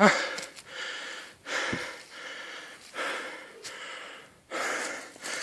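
Heavy, rapid breathing: a run of about seven noisy breaths in and out, roughly one every three quarters of a second.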